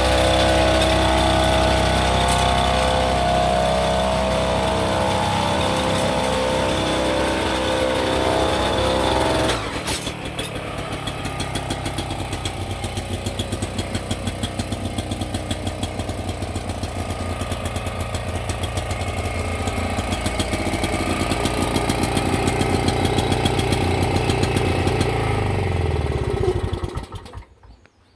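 Small engine of a farm monorail running. About ten seconds in, its sound changes abruptly to a fast, even pulsing that slowly grows louder. Near the end the engine winds down with falling pitch and stops.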